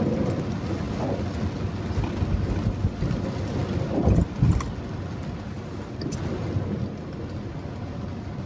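Steady noise of heavy rain mixed with a car driving on wet roads, with two short low thumps about four seconds in.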